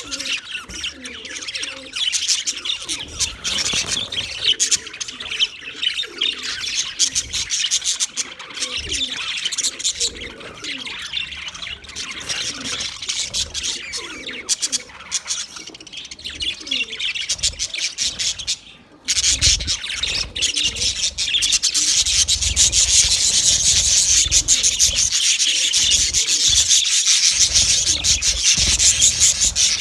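A flock of budgerigars chattering and chirping together, many birds at once in a dense, high-pitched warble. About 19 seconds in it breaks off abruptly and resumes louder and denser.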